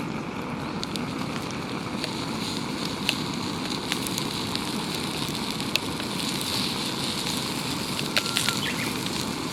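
Wood campfire crackling in a small solo fire pit: scattered sharp pops over a steady rushing noise.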